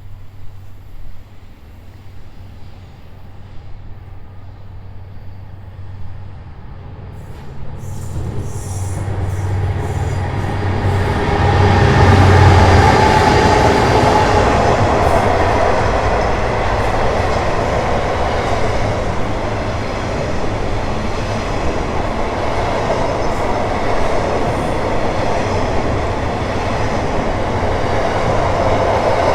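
Diesel-hauled freight train approaching and passing: a low locomotive engine hum grows louder until about twelve seconds in, then gives way to the steady rolling rush of the wagons going by.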